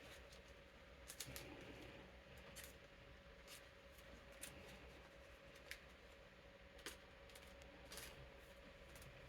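Soft, scattered clicks and rustles of playing cards being slid into plastic card sleeves, over the steady hum of an electric fan.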